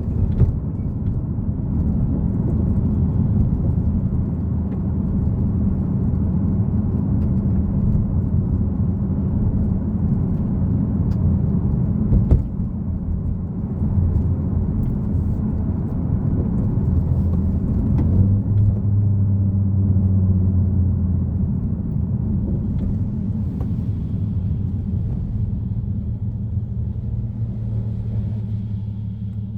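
Nissan Fairlady Z (Z34) 3.7-litre V6 running under way with road noise, a steady low rumble. The engine note grows stronger and deeper for a few seconds a little past halfway. There are a few sharp clicks, the clearest about twelve seconds in.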